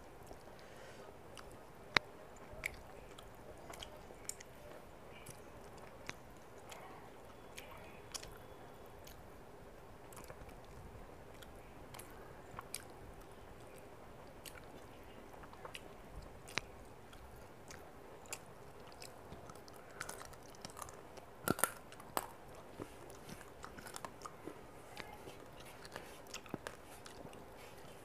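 Close-miked chewing and wet mouth smacks of a person eating fish curry by hand, with scattered sharp clicks and taps; the loudest come about two seconds in and about twenty-one seconds in.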